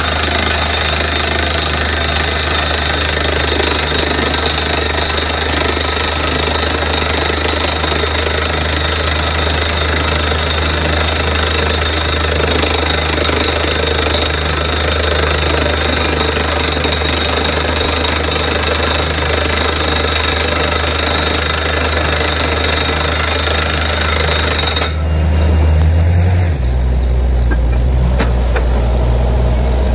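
Borewell drilling rig running, the down-the-hole air hammer pounding steadily over the diesel engine and compressor. About 25 seconds in the hammering cuts off suddenly, leaving the engine running with its note shifting.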